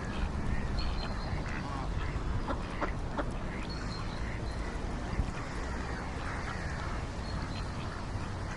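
Ducks quacking in short calls now and then, over a steady low rumble.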